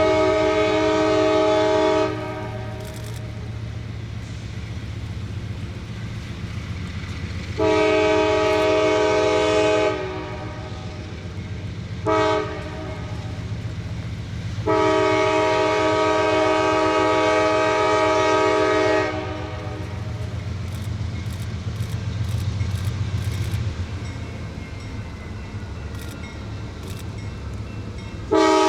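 Locomotive multi-chime air horn sounding the long, long, short, long grade-crossing signal over the steady rumble of a passing train, with another long blast starting near the end.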